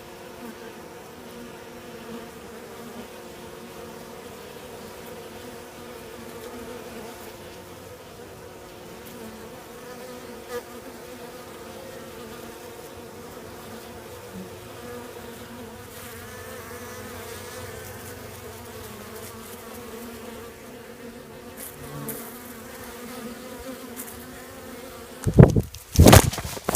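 Honey bees and yellow jackets buzzing at the entrance of a weak hive being robbed by the wasps: a steady, wavering hum of many insects. A brief, loud burst of noise comes near the end.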